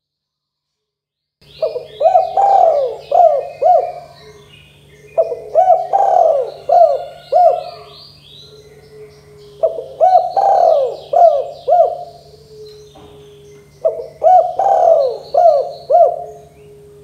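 Spotted dove (tekukur) cooing: four phrases of several quick coos each, a few seconds apart, starting after about a second and a half of silence. Small birds chirp faintly and higher in the background.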